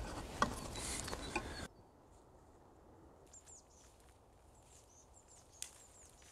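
Faint small-bird chirps and short calls over a quiet outdoor background, with one sharp click about five and a half seconds in. For the first second and a half a louder hiss with a few clicks sits on top, then cuts off suddenly.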